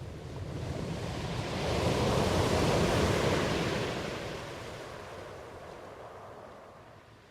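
Ocean wave surging in and washing back out: a rushing sound that builds to a peak about two to three seconds in, then slowly fades away.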